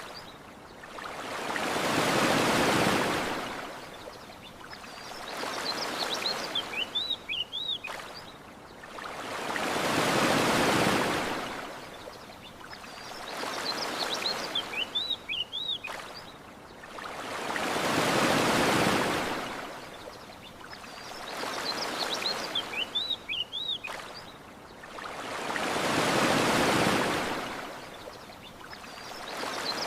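Ocean waves washing onto a beach, each swell rising and falling with one about every eight seconds, and small birds chirping in the lulls between them. A faint click comes every eight seconds.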